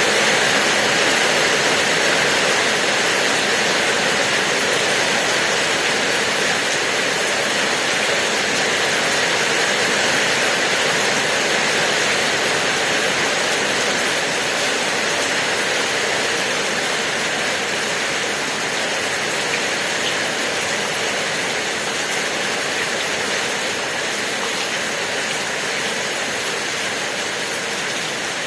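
Steady rain falling, an even hiss without separate drops standing out, easing very slightly in level toward the end.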